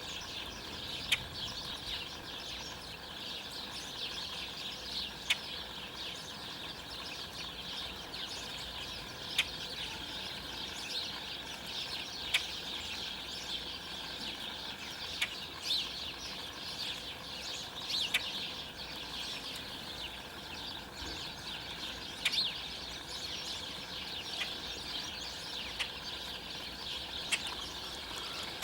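A flock of songbirds chattering: a dense, continuous stream of chirps, with a sharp, louder note standing out every couple of seconds.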